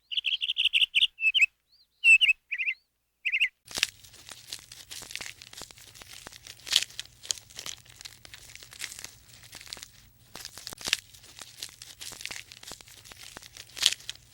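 Small birds chirping in quick high notes for about three seconds. It then breaks off into a quieter crackling, crunching rustle with scattered clicks over a steady low hum.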